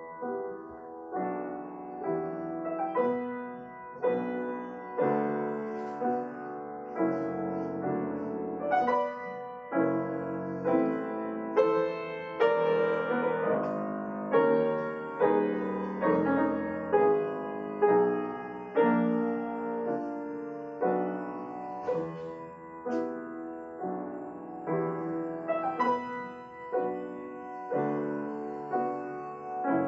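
Piano playing a slow, classical-style piece: chords and melody notes struck roughly once a second, each ringing and fading before the next.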